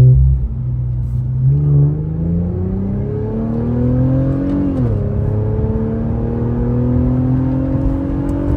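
Infiniti Q50's VR30 twin-turbo V6 accelerating hard: its pitch climbs steadily, drops sharply at an upshift about halfway through, then climbs again in the next gear.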